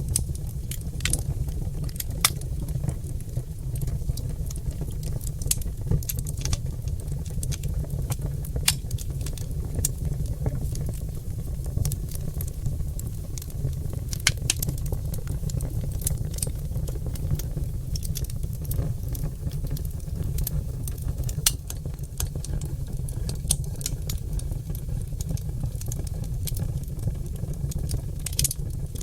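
Oak log fire in a fireplace crackling and popping: frequent sharp pops at irregular intervals over a steady low rumble.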